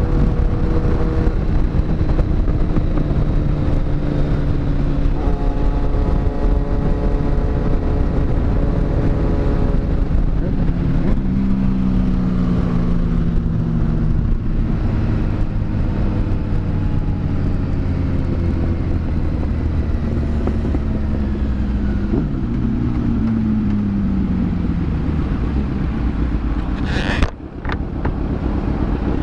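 Kawasaki inline-four sport motorcycle engine running under way, its pitch stepping and gliding up and down several times with throttle and gear changes, over a heavy low rush of wind. A brief sharp break cuts in near the end.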